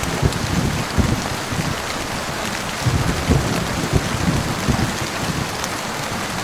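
Steady heavy rain hissing, with low thunder rumbling underneath that swells around the first second and again between about three and five seconds.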